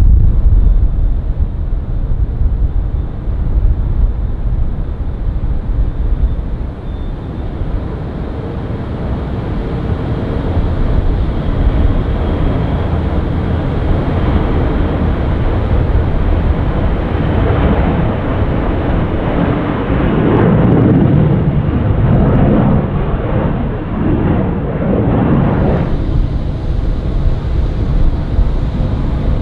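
Jet airliner engines: a deep, steady rumble that grows into a loud, sweeping roar as the aircraft passes close by, then cuts off abruptly a few seconds before the end.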